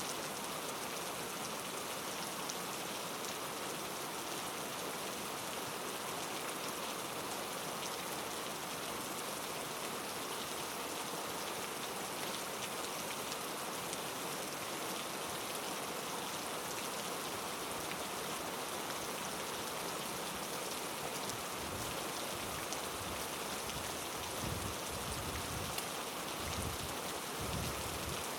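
Heavy rain falling steadily on rainforest foliage. A series of low thuds comes in over the last seven seconds or so.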